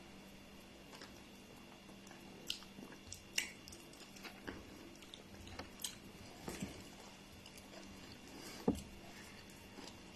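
Person eating pounded yam: scattered soft mouth clicks and chewing sounds, with one sharper click near the end, over a faint steady low hum.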